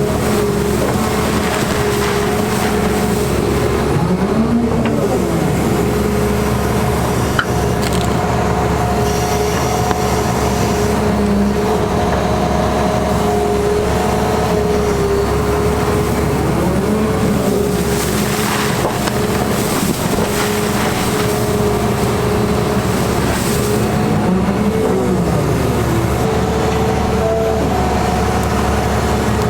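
Caterpillar 336E excavator working: its diesel engine runs steadily and loudly, with a whine that rises and falls in pitch three times as the hydraulics are worked.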